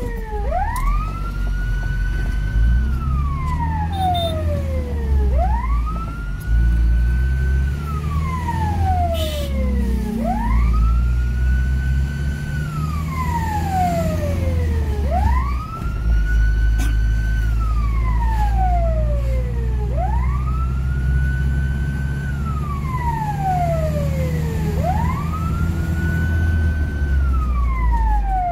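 Fire engine siren wailing, each cycle rising quickly, holding briefly and then sliding down, about every five seconds, over the truck's loud low engine rumble.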